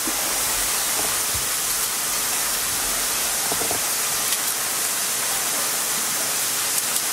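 Steady sizzle of food frying in a pan, with a few faint ticks from a seasoning shaker being shaken.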